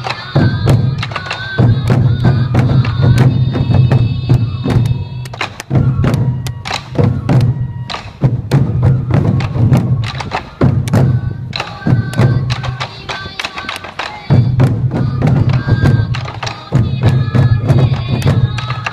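Sansa odori festival music: a group of taiko drums beaten in a fast, driving rhythm, with a shrill bamboo flute (fue) melody playing in phrases over the drumming.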